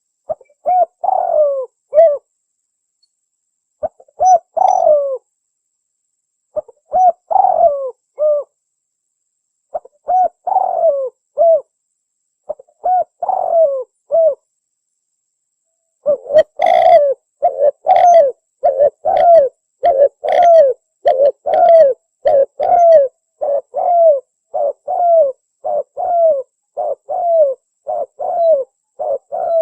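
Spotted dove (tekukur) cooing, played as a lure call for wild doves. First come separate cooing phrases about every three seconds with silence between them, then about halfway through a fast unbroken run of short coos, nearly two a second.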